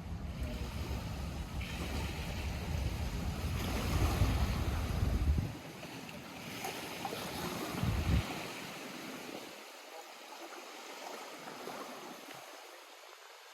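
Lake water lapping, with gusty wind rumbling on the microphone that drops away sharply about five seconds in and surges briefly once more, leaving a quieter wash of water.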